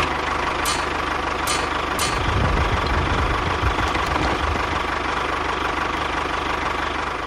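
A small motor running steadily with a constant whine, with a few light clicks in the first two seconds and a low rumble that grows stronger about two seconds in.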